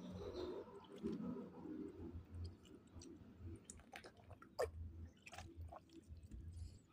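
A person chewing fish, with soft wet mouth sounds and a few sharp clicks and smacks. The loudest click comes about four and a half seconds in.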